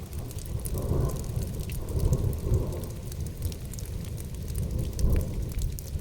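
Rain falling, with scattered drop ticks over a low rumble that swells twice.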